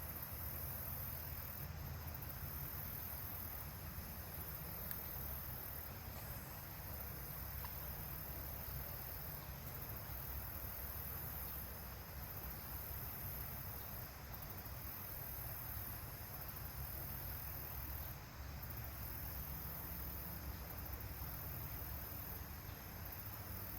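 A steady, high-pitched chorus of insects trilling, with a faint low rumble underneath.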